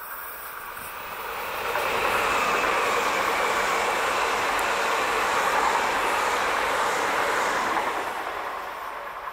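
Red regional multiple-unit passenger train passing at speed, a steady rush of wheels on rails. It swells about two seconds in, holds loud, and fades near the end as the train moves away.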